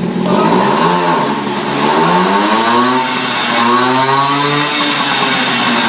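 Mobilet two-stroke moped engine revving with a length of stovepipe fitted to its exhaust. It revs up several times, each rise climbing in pitch.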